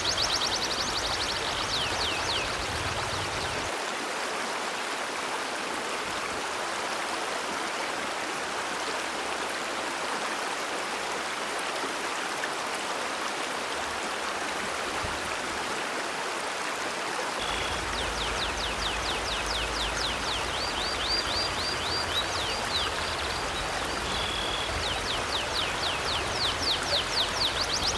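River water rushing steadily. A bird's fast chirping trill of quick, repeated high notes comes in briefly at the start and again from about two-thirds of the way through.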